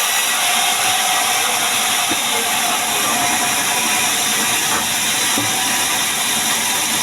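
Chainsaw running steadily with a continuous loud hiss as it saws mahogany timber into beams.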